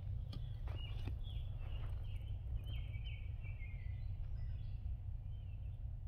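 Birds calling and singing: a few quick downward-sliding calls about a second in, then a longer chattering run around the middle, over a steady low rumble.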